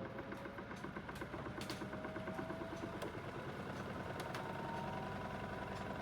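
Aidoo 1 kg mini washing machine's direct-drive motor in the final spin, a whine that rises in pitch as the drum speeds up toward 800 rpm, stepping up about three seconds in.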